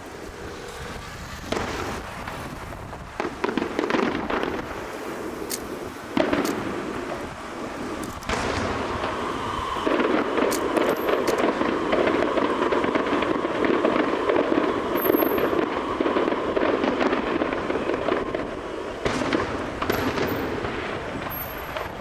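Aerial fireworks going off: a few separate bangs, then from about ten seconds in a dense, continuous crackle of many bursts that thins out near the end.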